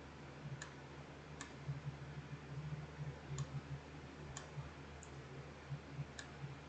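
Faint, scattered clicks, about six of them at uneven intervals, over a low steady hum.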